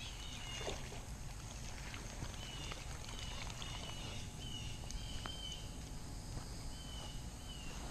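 A bird calling repeatedly in short, high whistled phrases over a faint, steady low rumble of outdoor background, with a few light clicks.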